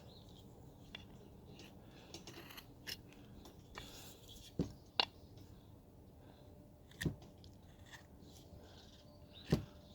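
Hand carving chisel cutting into a wooden figure: faint, scattered small cutting ticks with a few sharper clicks spread through, about four of them standing out.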